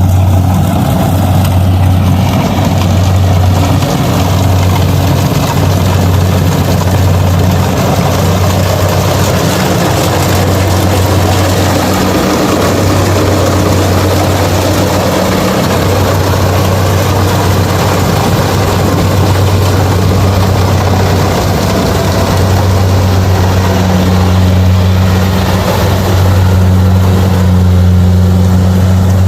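Kubota DC-70 rice combine harvester running steadily: a deep, continuous diesel engine drone under the noise of the working machinery.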